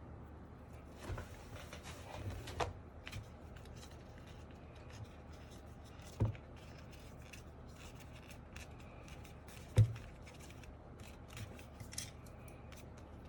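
Scissors snipping in a run of small quick cuts, with a few light knocks and two sharper knocks about six and ten seconds in.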